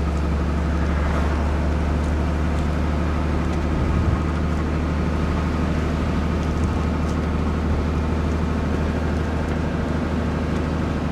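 Truck's diesel engine running steadily on the road, a low even drone.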